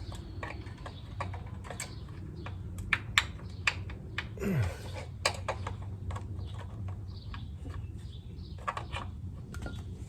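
Irregular light clicks and taps of small metal parts and tools being handled on a workbench, over a low steady hum. About four and a half seconds in there is a brief falling squeak with a short hiss.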